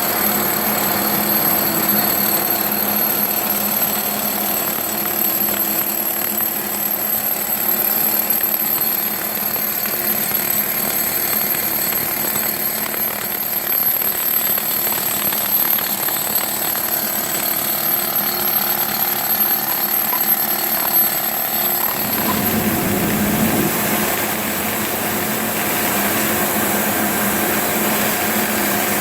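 Steady industrial machine noise with a constant hum and a thin high whine. About 22 seconds in, the sound shifts: the whine drops out and the lower rumble grows.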